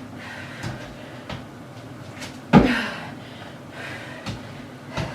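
Feet landing on a plyometric box during box jumps: one loud thump about two and a half seconds in, with lighter knocks and footfalls between as the jumper steps back down, in a small room.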